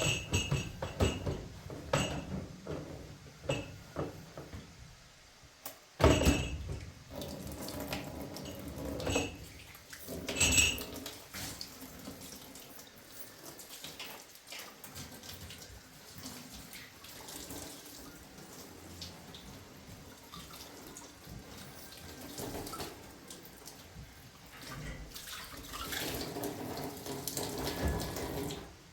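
Running water, with scattered knocks and clinks of hard household objects, most of them in the first half.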